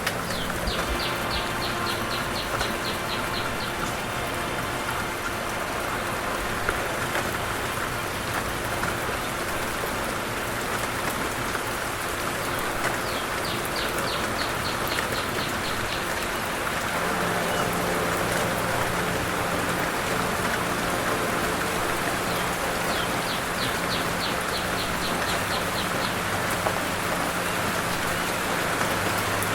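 Steady rain-like hiss, with a small bird singing a fast trill of high, down-slurred notes three times, each about three seconds long.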